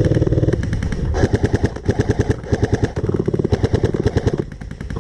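Airsoft electric gun fired on full auto in rapid bursts: a fast rattle of shots at about ten a second, with the whir of the gearbox pulsing under it. It eases off briefly near the end.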